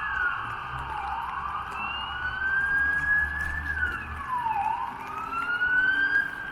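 An emergency vehicle's wailing siren, its pitch sweeping slowly down and up twice, over a steady hiss of rain.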